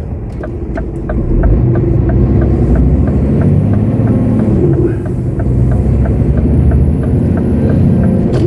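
Lorry's diesel engine pulling away and accelerating, its pitch rising, dropping about five seconds in as it changes gear, then rising again. An indicator ticks steadily about two and a half times a second.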